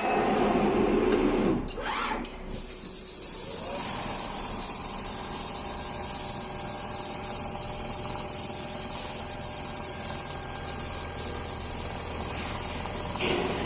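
A few sharp clicks about two seconds in, then machinery starts running steadily with a high hiss and a faint hum, growing slightly louder.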